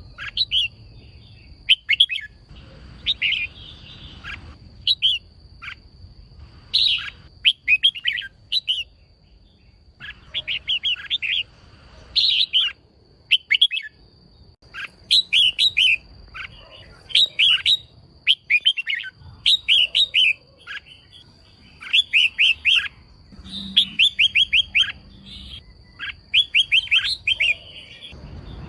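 Female red-whiskered bulbul calling in quick clusters of sharp chirps, one cluster every second or two, the calls keepers use to rouse male bulbuls. A faint steady high whine runs underneath.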